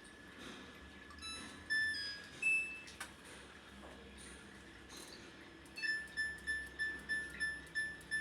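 Electronic beeps from a fully automatic washing machine's control panel: a few single beeps in the first couple of seconds, then from about six seconds in a steady run of short, high beeps, two to three a second.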